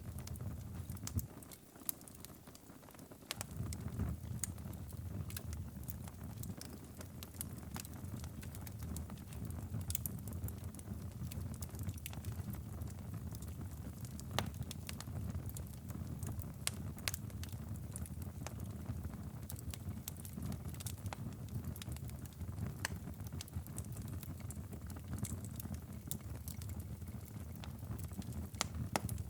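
Wood fire in a fireplace crackling, with sharp irregular pops over a steady low rumble of the flames. The rumble drops away briefly about two seconds in, then returns.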